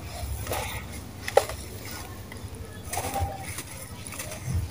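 Dry red sand cement crumbling and crunching in a tub, with a few sharp cracks, the loudest about a second and a half in.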